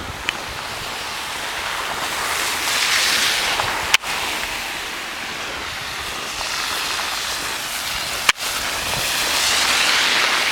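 Passing traffic: tyre hiss swells and fades as a vehicle goes by, then another swells near the end, with two sharp clicks about four and eight seconds in.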